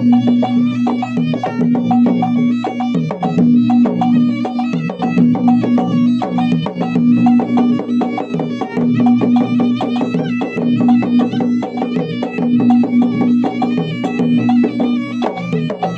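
Traditional South Sulawesi gendang drums played in a fast, dense rhythm. Over the drums runs a reedy wind melody with a steady low drone.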